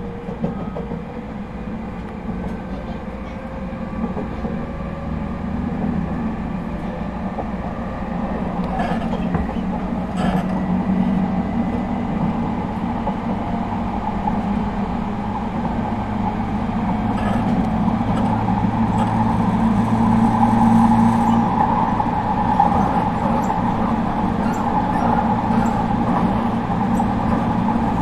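Running sound inside an ET127-series electric train with a Toyo IGBT-VVVF inverter: motor and inverter hum over the rumble of wheels on the rails, growing louder over the first twenty seconds.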